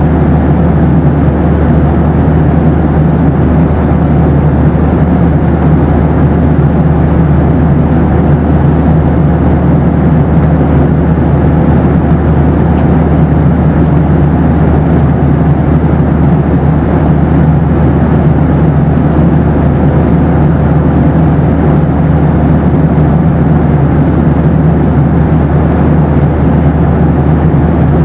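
Steady cabin drone inside a Boeing 737: engine and airflow noise, deep and even throughout, with a faint steady hum above it.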